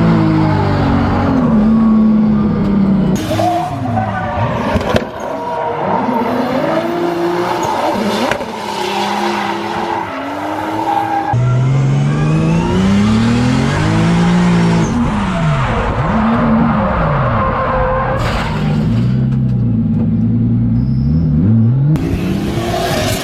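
Drift cars on track: engines revving high and dropping again and again, with tyre squeal. The sound changes abruptly several times.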